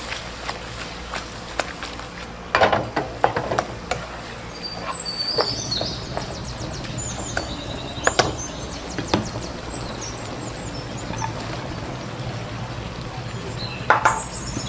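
Cooking sounds: sharp utensil clinks and knocks, a cluster a few seconds in and single ones later, over a steady low hum, with some high chirping squeaks in the middle.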